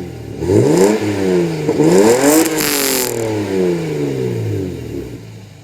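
Lexus SC300 straight-six exhaust as the engine is revved twice: the pitch climbs quickly, drops, climbs again, then falls back slowly as the revs settle.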